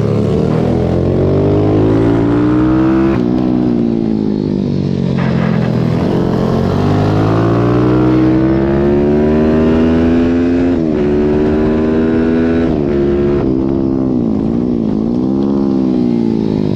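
Pitbike's single-cylinder four-stroke engine at race pace, revs climbing through the gears with a sharp drop at each upshift, then dipping and rising several times near the end.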